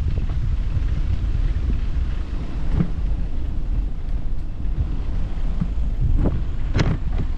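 Wind buffeting the microphone as a steady low rumble, with a few short, sharp sounds about three seconds in and twice near the end.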